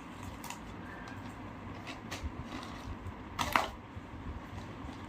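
Scattered light clicks and taps of small hard objects being handled, with one louder clatter about three and a half seconds in, over a low room hum.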